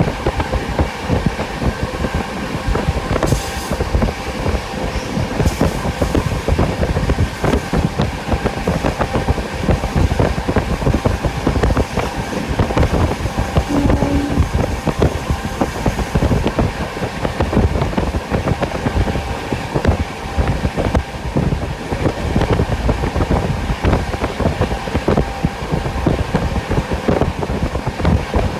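Express train running at speed, heard from inside a passenger coach: a steady rumble and dense rattle of wheels on the track.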